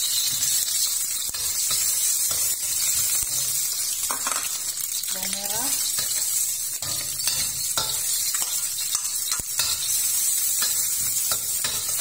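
Chopped garlic and shallots sizzling in hot oil in a stainless steel wok, with a metal spatula scraping and clicking against the wok as they are stirred.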